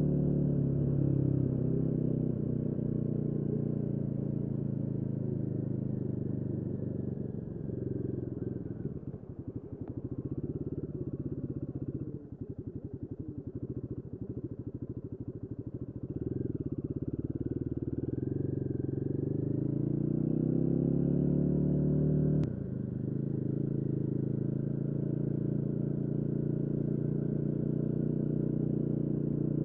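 Royal Enfield Guerrilla 450's single-cylinder engine running, its pitch wandering as engine speed changes. It drops and quietens in the middle, then climbs steadily before falling off sharply about two-thirds of the way through and settling to a steady note.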